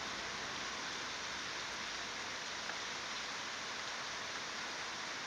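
Steady rushing of flowing river water, even throughout.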